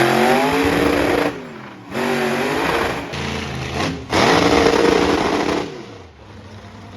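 Monster truck engine revving hard in three bursts, each rising in pitch, holding, then dropping off, with short lulls between.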